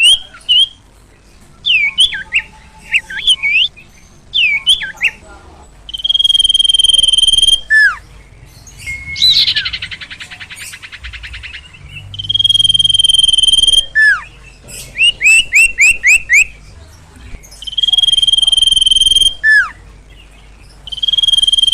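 A bird known in Indonesia as sirtu or sirpo calling: long steady high whistles of about a second and a half each, repeated several times, between quick downward-sliding whistles, a run of rapid short notes and a harsh buzzing rattle.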